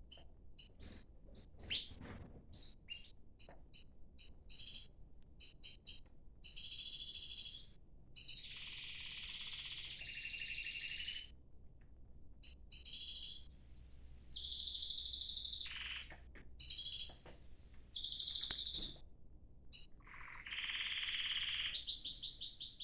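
Domestic canaries chirping and singing: scattered short chirps at first, then rolling trills of rapid repeated high notes in phrases a second or two long, growing louder toward the end.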